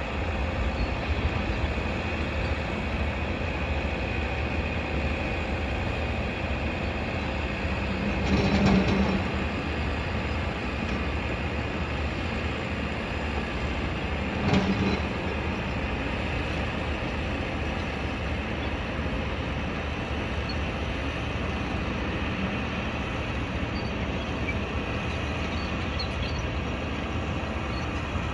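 Steady low rumble of construction-site and city noise, with two louder knocks or clanks about nine and fifteen seconds in.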